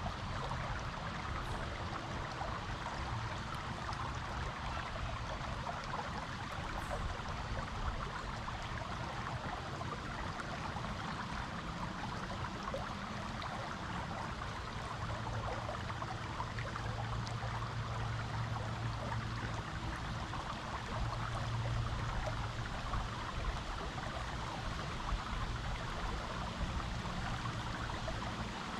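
Creek water flowing steadily over rocks, an even, continuous rushing and trickling.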